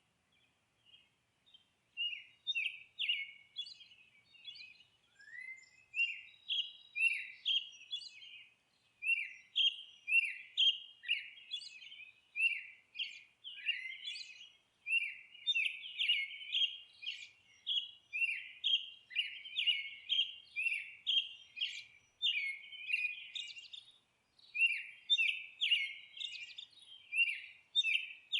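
Songbirds chirping and singing: quick, high, downward-sweeping chirps repeated several times a second, thin at first and becoming a dense, continuous run about two seconds in.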